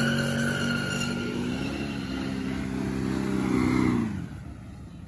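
A car engine running with a steady note that rises a little, then drops in pitch and fades away about four seconds in.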